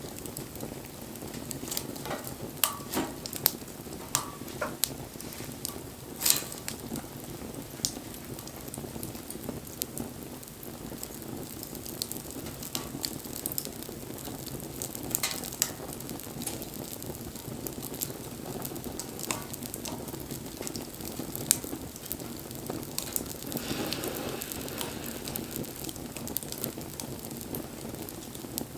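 Wood fire burning: a steady hiss with sharp crackling pops scattered throughout.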